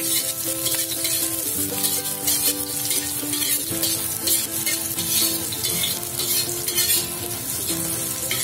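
Chopped chili, shallot and garlic sizzling in hot oil in a stainless steel wok, with a metal spatula scraping and stirring at irregular moments: the spice base for fried rice being sautéed. Background music plays underneath.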